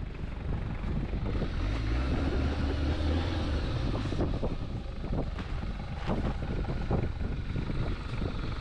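Vehicle engine running with a steady low rumble that swells for a couple of seconds, mixed with wind noise and scattered short knocks.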